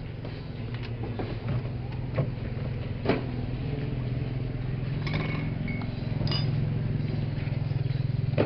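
A steady low mechanical hum with scattered clicks and knocks; the hum gets a little louder about six seconds in.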